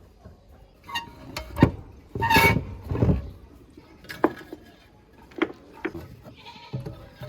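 Workshop handling sounds: a string of sharp clicks and knocks, with a short scraping squeal about two and a half seconds in, as old fan parts are worked with hand tools.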